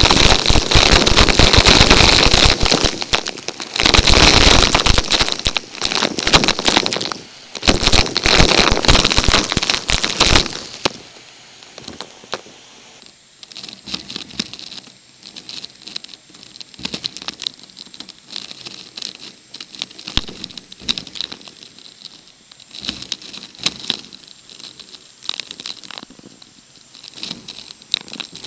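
Loud crackling and crunching in several stretches for about ten seconds, then only scattered light crackles and clicks.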